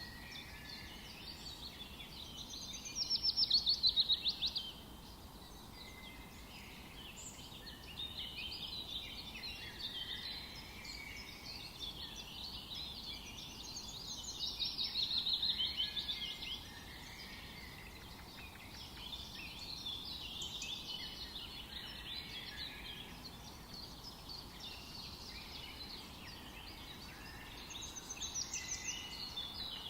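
Forest birds singing: phrases of high chirps and fast trills that come and go, the loudest a few seconds in and about halfway, over a faint steady hiss.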